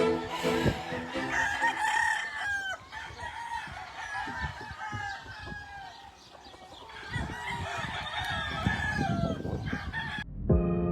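A flock of chickens clucking, with roosters crowing, over outdoor background noise. Background music comes back in near the end.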